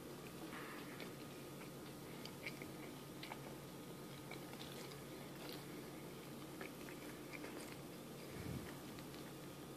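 Faint close-up chewing and biting of a fried egg sandwich: small wet clicks and smacks, over a faint steady hum. A soft low bump near the end.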